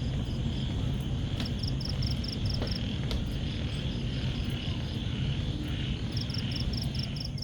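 Rainforest night chorus of insects and frogs: a steady high insect drone with two trains of rapid high-pitched pulsed chirps, over a constant low rumble.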